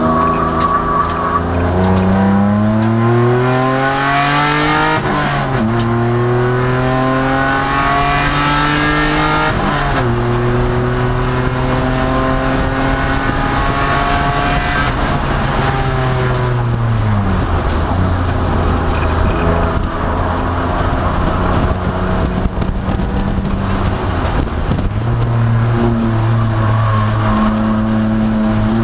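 2002 Nissan Maxima race car's 3.5-litre V6 under racing load. The engine climbs in pitch, drops back at gear changes about five and ten seconds in, and holds steady for several seconds. It falls away around the middle as the throttle comes off, runs low for a while, then climbs again near the end.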